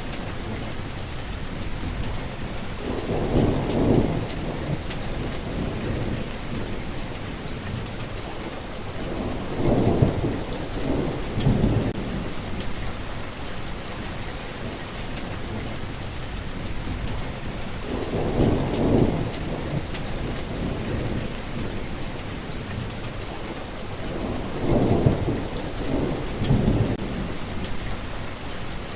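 Steady rain with rolls of thunder, low rumbles that swell and fade four times, each lasting one to three seconds.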